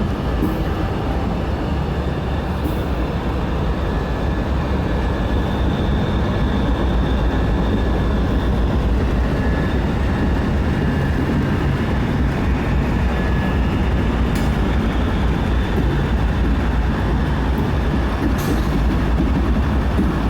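Slow loaded coal train with diesel locomotives going by, a steady low rumble of engines and wheels on the rails, broken by a few sharp clicks.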